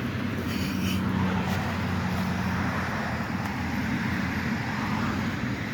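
Road traffic: a steady wash of tyre and engine noise from passing cars.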